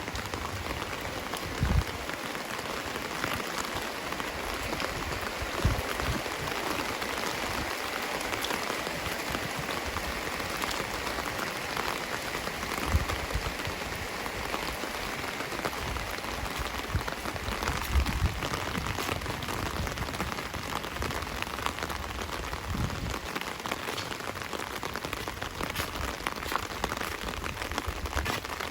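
Steady rain falling, a dense patter of drops, with a few dull low thumps now and then.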